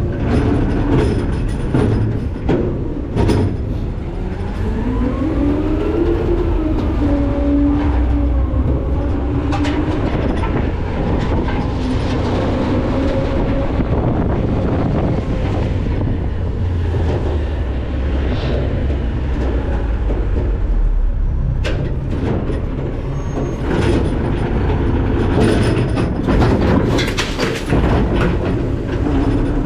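McNeilus ZR automated side-load garbage truck heard from its hopper: a steady low rumble dotted with metal clanks and knocks, and a hydraulic whine that rises and falls from a few seconds in until about halfway through.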